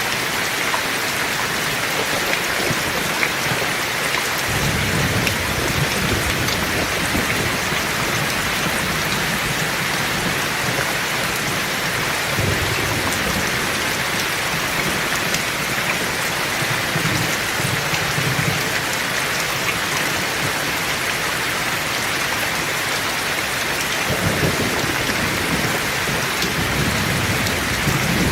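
Heavy rain falling steadily, with low rolls of thunder rumbling under it, starting about four seconds in and again several times later.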